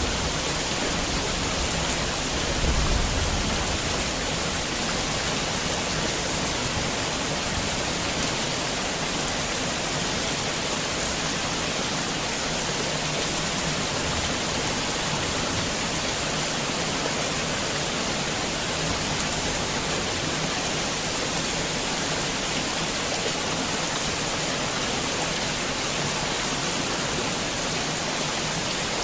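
Heavy rain falling steadily: a dense, even hiss of downpour. A brief low rumble rises under it about two to three seconds in.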